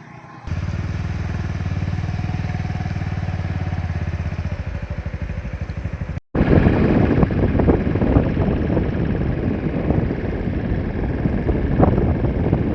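A vehicle engine running steadily with an even low pulse; after a brief cut, a louder, rougher rumble with wind buffeting the microphone.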